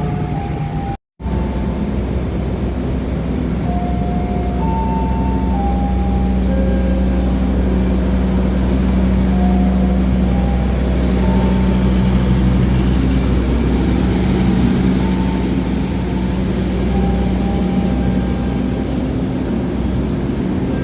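Diesel locomotive engine running with a steady low drone. The sound drops out for an instant about a second in. Faint short higher tones come and go over the drone.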